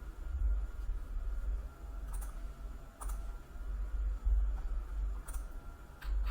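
Four sharp clicks on a computer's keyboard and mouse, spaced a second or more apart, over a steady low rumble.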